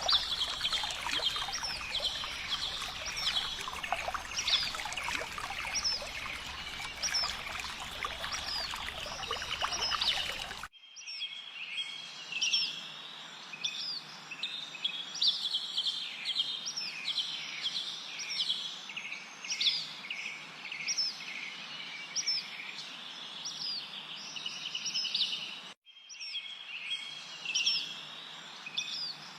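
A chorus of small songbirds chirping, with many quick, repeated sweeping calls and trills overlapping. For the first ten seconds or so a steady rush of running water sits beneath the birds, then cuts off abruptly, leaving the birdsong alone, with a brief drop-out later on.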